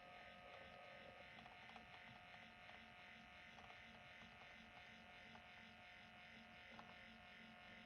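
Near silence: faint steady room hum with a few soft ticks.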